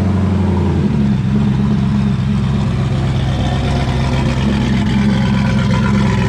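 Modified Mercury Marauder V8 idling loudly through side exhaust, with the note changing about a second in.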